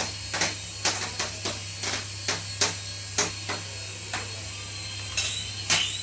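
Irregular sharp clicks and taps, about two to three a second, thinning out in the second half, over a steady low hum.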